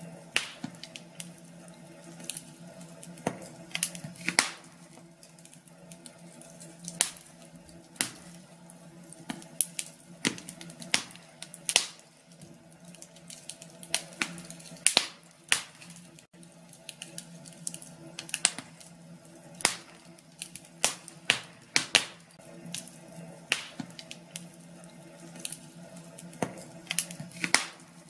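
Wood fire crackling in a fireplace: irregular sharp snaps and pops, sometimes several in quick succession, over a low steady hiss and a faint steady hum.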